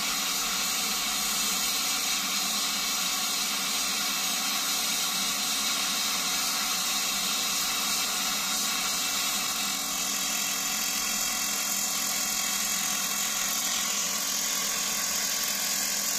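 Steady hissing, buzzing arc of welding on the damaged rear of a washing machine drum, running evenly without a break.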